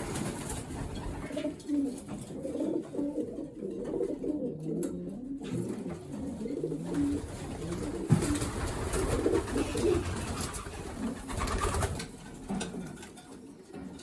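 Racing pigeons cooing, many low coos overlapping all the way through, with a short sharp knock about eight seconds in.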